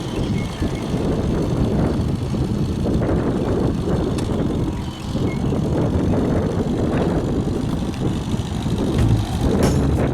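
A 1968 Evinrude 6 hp two-stroke outboard runs steadily, pushing a small boat along, with a rushing, rumbling noise of wind on the microphone and water over it.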